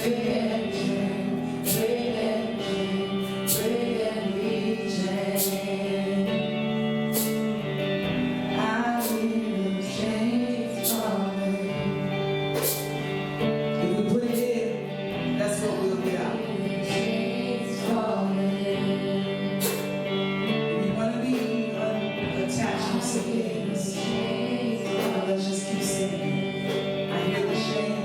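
Gospel worship music: singing over sustained chords, with a slow steady beat of percussion hits about every two seconds.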